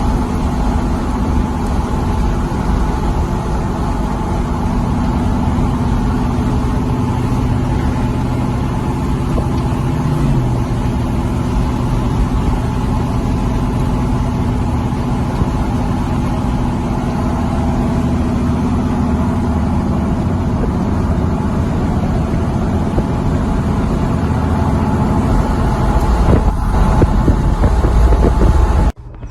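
Truck engines running steadily with a deep rumble, getting louder in the last few seconds, then cut off suddenly.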